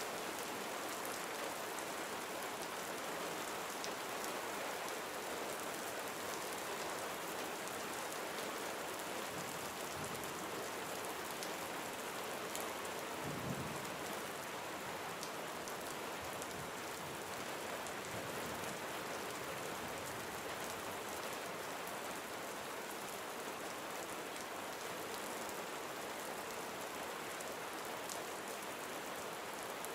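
Steady gentle rain falling on surfaces, an even patter with scattered individual drops.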